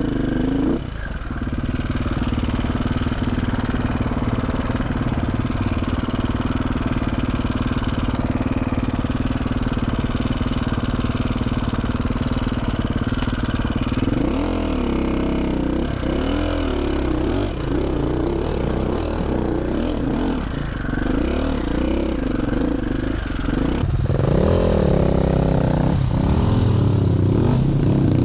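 KTM 450 SX-F dirt bike's single-cylinder four-stroke engine running at a steady speed for about half the time. Its pitch then rises and falls again and again as the throttle is worked.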